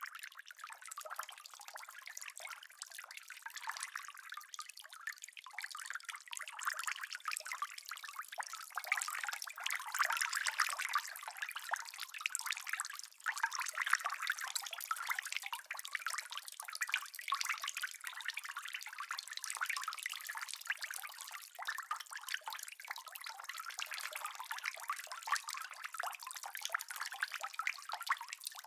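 Steady rain falling, heard as a dense patter of many small drops.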